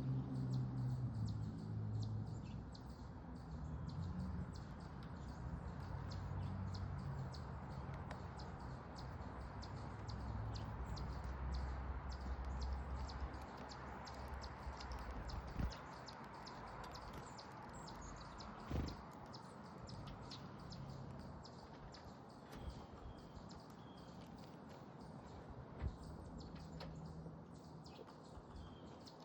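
Backyard ambience at a bird feeder: faint, short bird chirps and many small ticks and taps from birds at the feeder, with a few louder clicks. A low rumble underneath fades out about halfway through.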